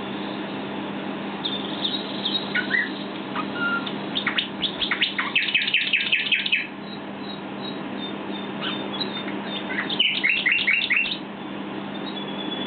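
Common nightingale singing: scattered whistles and chirps build into a fast run of rapidly repeated notes about five seconds in, with a second, shorter run about ten seconds in.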